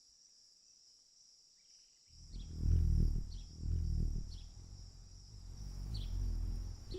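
Hummingbird wing hum coming in about two seconds in as the bird hovers close, with a few short high chirps, over a steady high-pitched insect chorus.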